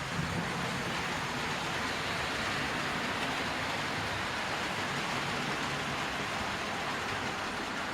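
00 gauge model trains running on the layout: a steady whirring rush of motors and wheels rolling on the track.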